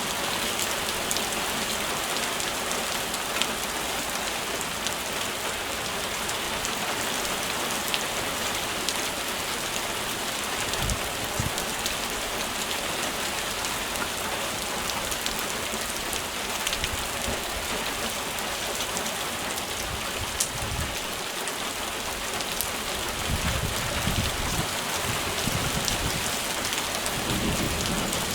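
Heavy rain falling steadily, with many small drop ticks. Low rumbles come in about ten seconds in, again near twenty seconds, and more strongly over the last few seconds.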